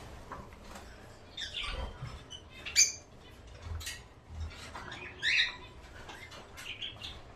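Caged pet birds chirping and squawking in short, scattered harsh calls. The loudest is a sharp squawk just under three seconds in, with other bursts around two seconds and a little past five seconds.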